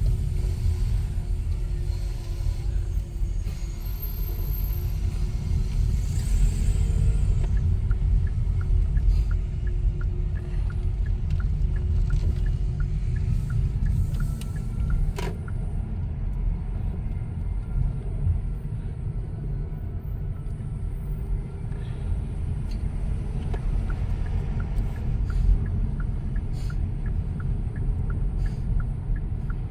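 Low, steady rumble of a car driving, heard from inside the cabin: road and engine noise, with a single sharp click about halfway through.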